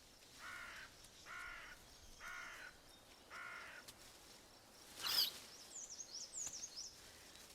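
Four evenly spaced harsh animal calls, each about half a second long and a little under a second apart. Then comes a short sharp crack and a few quick high bird chirps near the end.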